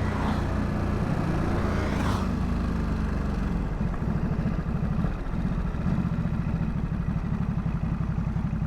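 Ducati SuperSport 950 S's twin-cylinder engine running on the move. About four seconds in, its steady note turns into a lower, evenly pulsing throb as the revs come down.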